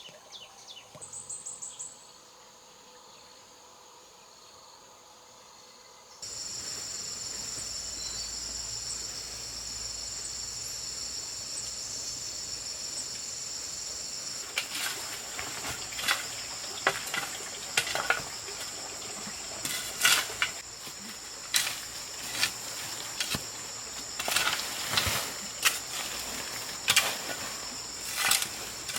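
A steady, high, even insect chorus starts abruptly about six seconds in, after a few bird-like chirps at the start. From about halfway it is joined by a run of irregular sharp knocks.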